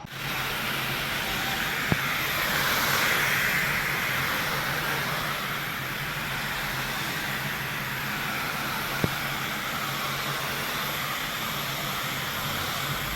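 A body-shop tool starts abruptly and runs steadily with a hissing noise over a low motor hum, swelling slightly in the first few seconds. Two sharp clicks sound, about two and nine seconds in.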